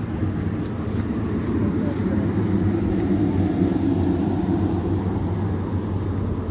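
Diesel Intercity train's engine running with a steady low rumble that swells in the middle and eases near the end.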